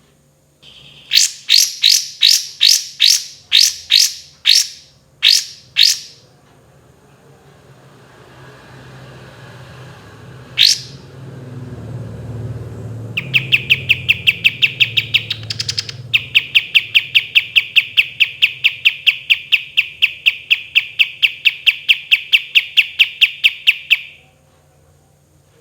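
Kapas tembak songbird singing: a run of about a dozen loud, sharp sweeping notes, one more a few seconds later, then a long fast roll of evenly repeated notes at about four a second that lasts some ten seconds and stops abruptly. A low rumble swells under the song midway.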